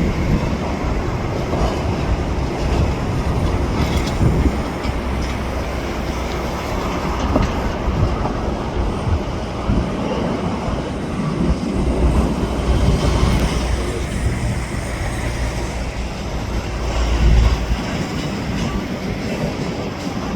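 Freight train cars rolling along the track, wheels clacking over rail joints, with a deep low rumble that swells in the second half.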